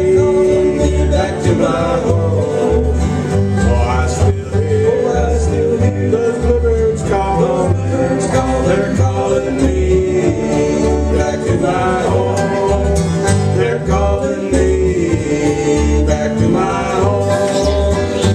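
Acoustic bluegrass band playing an instrumental break, with banjo and guitar picking, a bowed string carrying the wavering melody, and a steady repeating bass line.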